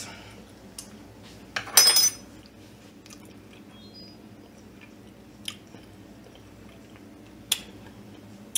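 A person tasting a spoonful of baked beans: a short, loud mouth sound about two seconds in, then quiet chewing with a few faint clicks.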